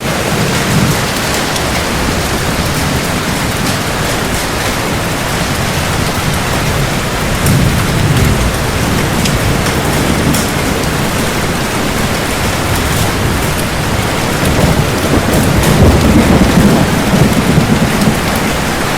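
Steady heavy rain with thunder rumbling low underneath. The rumble swells about a second in, again about eight seconds in, and most strongly from about fifteen to eighteen seconds in.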